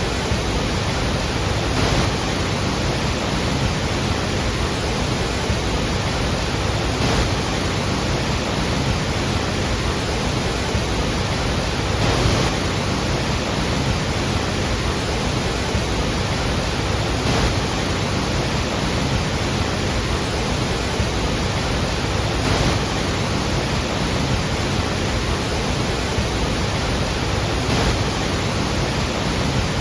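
Iguazu Falls: the steady, dense rush of a huge volume of water falling, an even noise without let-up.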